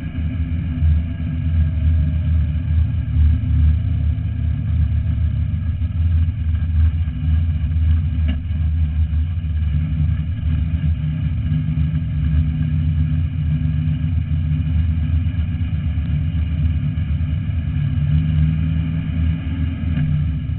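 Drag-race car's engine heard from inside the cockpit, running at low revs with a steady, uneven rumble while the car rolls slowly.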